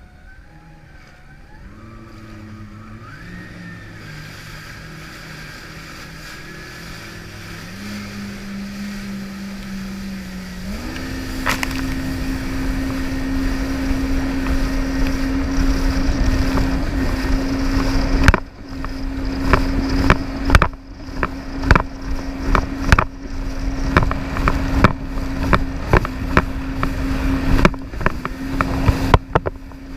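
Jet ski engine speeding up in steps, then running at a steady high pitch at speed from about 11 s in, getting louder. From about 18 s a run of sharp irregular thumps and blasts cuts through the engine.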